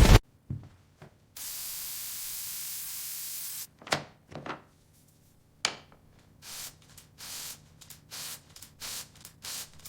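Spray hissing steadily for about two seconds, then a few sharp knocks and a run of short spray bursts.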